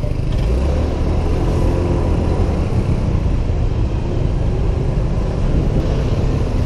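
Riding noise from a Honda PCX 125 scooter in city traffic: a steady low rumble of the scooter's engine and road noise.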